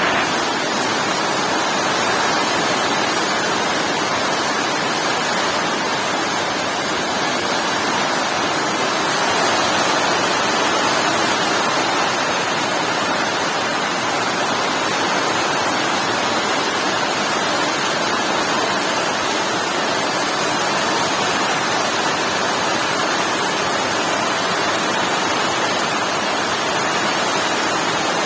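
Heavy rain falling in a steady, unbroken downpour, a dense even hiss.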